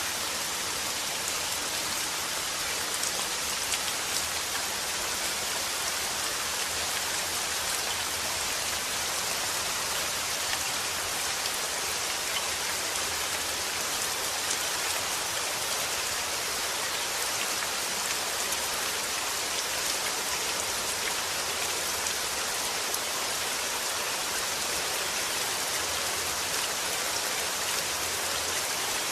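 Steady rain falling, an even hiss of many fine drops, without let-up.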